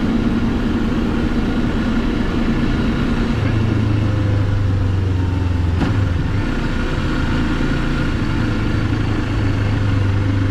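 Moto Morini X-Cape 650's parallel-twin engine running steadily at low road speed, heard from the rider's seat. A single sharp click about six seconds in.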